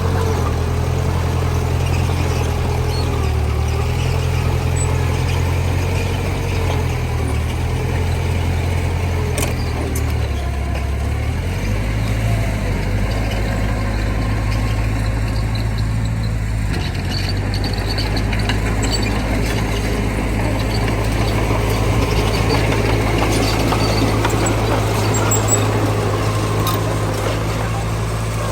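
Diesel engines of heavy earthmoving machinery running steadily, with a change in the engine note about eleven seconds in.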